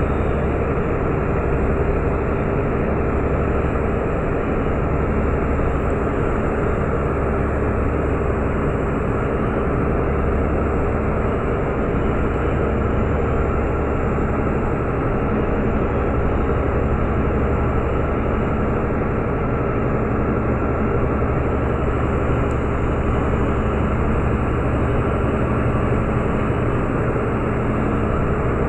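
Meteor hydrofoil's twin diesel engines running at steady cruise, heard from on board as a constant loud drone with a low rumble and a steady hum.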